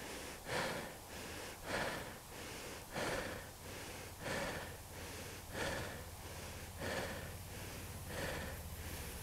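A man breathing hard and heavily, about one breath every second and a half, out of breath from struggling to free a motorcycle stuck in snow.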